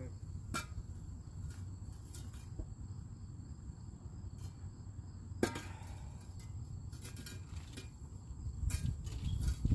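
A few scattered sharp clicks and knocks, the loudest about five and a half seconds in, over a steady low rumble and a faint high steady tone.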